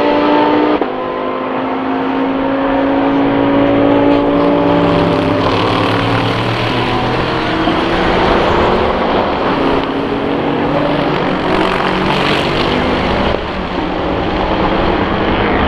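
SUPER GT racing cars accelerating hard out of a corner onto a straight, engines at high revs with their pitch slowly rising. The sound changes abruptly about a second in and again near the end as one car's sound gives way to another's.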